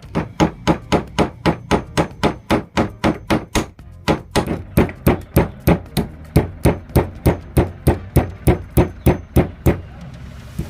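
A hammer striking wood repeatedly in a steady rhythm, about three blows a second, for most of the time before stopping near the end.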